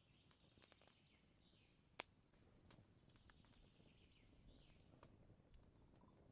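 Near silence: faint forest ambience with scattered small clicks and taps, one sharper click about two seconds in.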